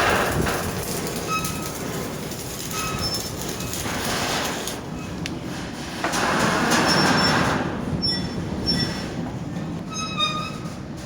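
Stacked shipping containers creaking and squealing metal on metal as the ship works in a rough sea. Short high squeals come several at a time over swelling rushes of noise.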